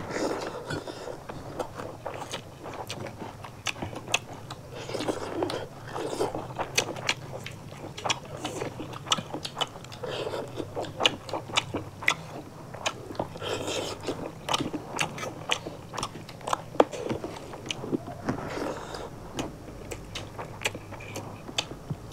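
Close-miked mukbang eating: two people chewing and crunching mouthfuls of rice, fish curry and singju, a Manipuri raw-vegetable and herb salad. Frequent sharp wet mouth clicks and lip smacks run throughout.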